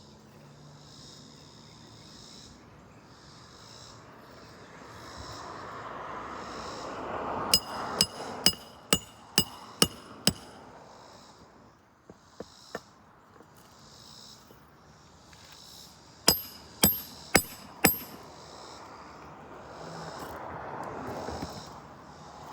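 Hammer blows with a metallic ring: a run of about seven quick strikes, a couple of light taps, then four more strikes, during repair work on brittle asphalt roof shingles. Insects chirr in steady pulses behind them.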